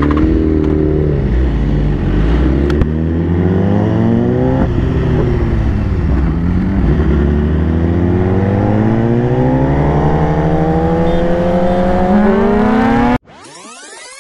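BMW S1000RR inline-four with a full Akrapovic exhaust accelerating hard at full throttle. The revs climb and drop back at each of several quick upshifts, then rise slowly in a long pull in a high gear. The engine sound cuts off suddenly near the end, and a whooshing sound effect takes over.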